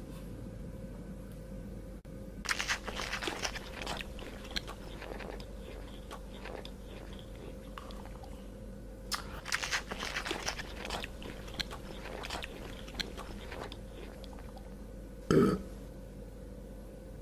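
An animal crunching and chewing food in two spells of crackling bites, the first about two and a half seconds in and the second about nine seconds in, with one louder short sound near the end, over a steady hum.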